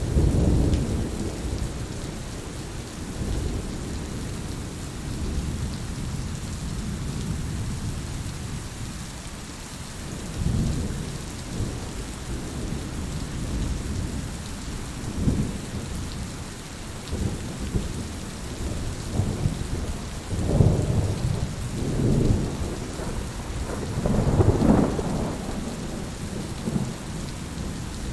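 Steady rain falling, with several low rolls of thunder rising and fading over it; the loudest rumbles come about two-thirds of the way through and near the end.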